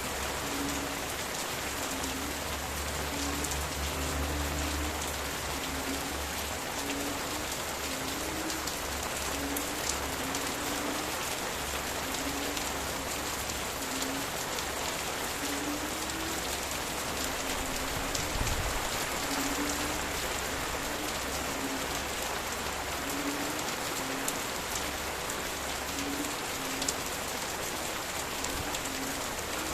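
Steady rain pattering on leaves, with frogs calling in the background: short low notes repeating a little more than once a second.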